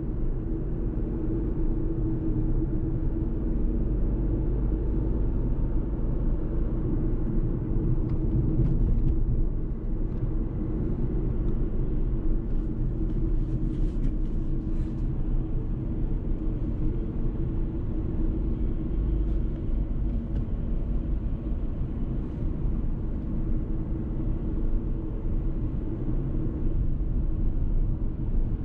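Fiat Tipo's 999cc three-cylinder turbo petrol engine running with road and tyre rumble as the car drives at a steady pace, its note holding level without revving up or down.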